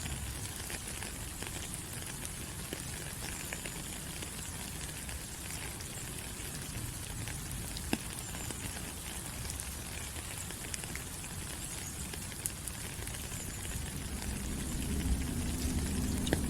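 Steady tropical rain falling on forest leaves, a continuous hiss with many separate drops ticking through it. A low rumble swells near the end.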